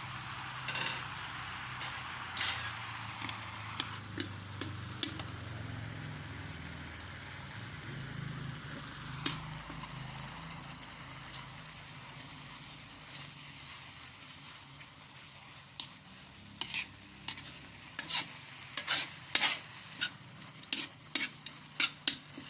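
A utensil stirring food in a pan or pot as it sizzles, with scattered sharp knocks of the utensil against the pan. The knocks come quickly, several a second, in the last several seconds.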